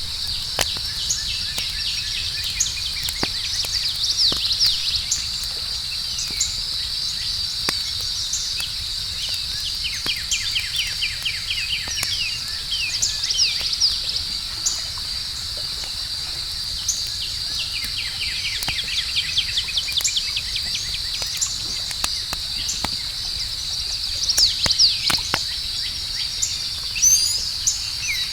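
Campfire crackling with scattered sharp pops, under a steady high chorus of crickets. A bird's rapid trilling calls come and go several times.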